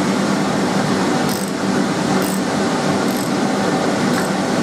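Ratcheting socket wrench tightening an anvil hold-down bolt, a faint click about once a second over a steady fan-like hum; the bolt may be stripped.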